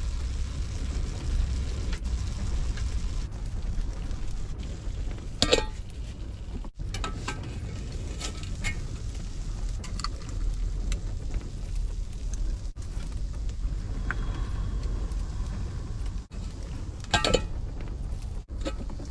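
Strong wind rumbling low and unsteadily against a small camper trailer, with a few sharp clinks of cooking pots and utensils.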